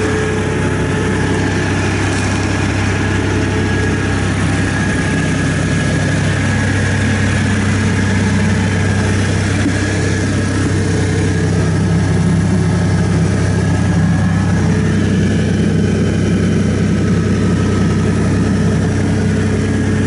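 Diesel engine of a 2016 Bobcat S450 skid steer running steadily, a little louder for a few seconds past the middle.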